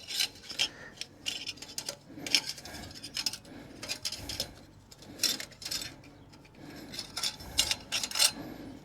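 Small metal tools and parts being handled: irregular clinks, clatters and short scrapes.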